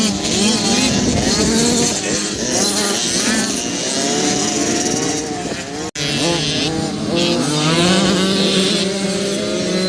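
Several dirt bike engines revving up and down as they ride, their overlapping pitches rising and falling, with a brief break in the sound about six seconds in.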